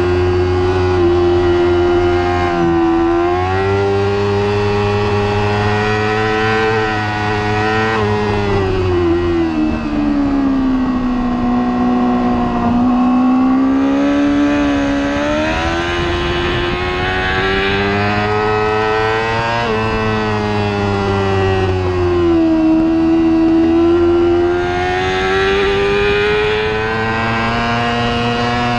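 Race motorcycle engine running under load, its pitch climbing slowly and dropping back several times as the throttle and gears change, with a sharp drop about two-thirds of the way through.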